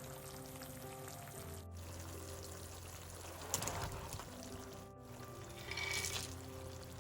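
Background music over two short spells of liquid being poured, about halfway through and again near the end, the second the louder.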